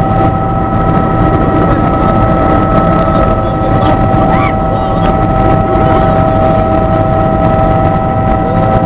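Helicopter in flight: steady, loud rotor and engine noise with a constant high whine over a low rumble.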